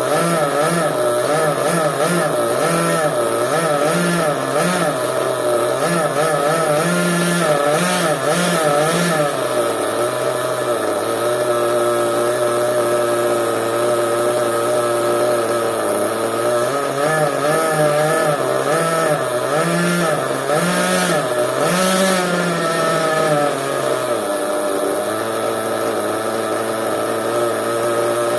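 Small two-stroke engine of a fuel-powered CEN RC monster truck running, its pitch rising and falling in quick throttle blips through the first several seconds. It holds a steady idle for a while, blips again, then drops back to a steady idle near the end.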